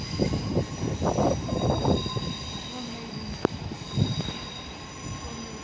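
Third-rail electric multiple-unit train moving slowly through the station, its wheels rumbling on the track with a steady high-pitched squeal. A single sharp click sounds about three and a half seconds in.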